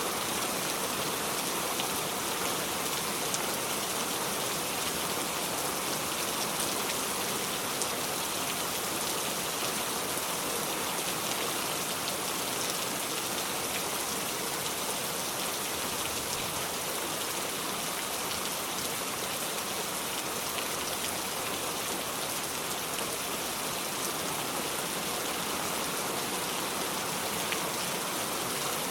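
Steady heavy rain falling, an even hiss with scattered drop ticks and no thunder.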